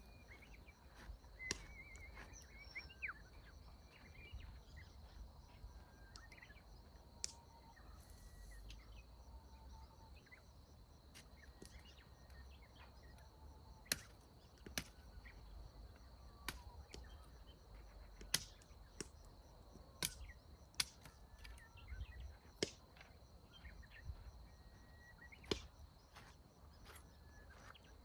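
Faint outdoor ambience: a steady high insect drone, occasional bird chirps and a low rumble. About a dozen sharp snaps or cracks come at irregular intervals over it, more of them in the second half.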